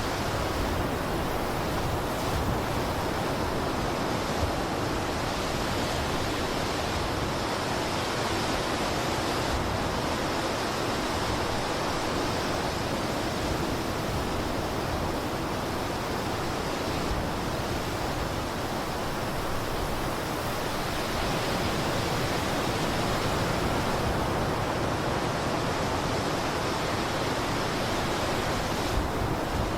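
Blizzard wind blowing steadily: a dense, even rush of noise, deep and hissing at once, with only slight swells and no distinct gusts.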